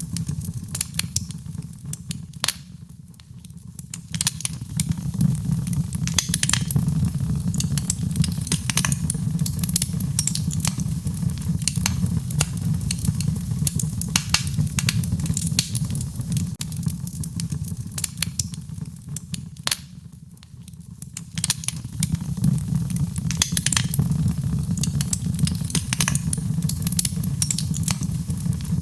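Wood fire in a fireplace crackling, with frequent sharp pops and snaps over a steady low rumble of the flames. The sound eases off briefly twice, about three seconds in and again near twenty seconds.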